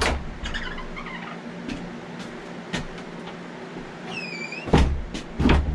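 Several sharp knocks and thumps, with a short squeak about four seconds in, over a low steady hum.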